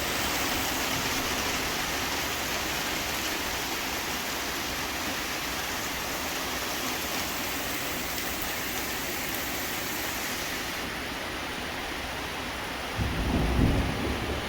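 Heavy rain pouring down steadily in a downpour. Near the end, a louder low rumble comes in.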